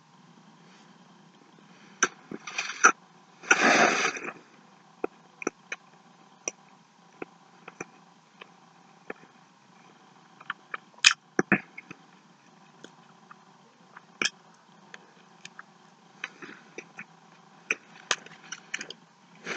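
Close-up chewing of a mouthful of burger: scattered wet mouth clicks and smacks, with a short, louder burst of noise about three and a half seconds in. A faint steady hum sits underneath.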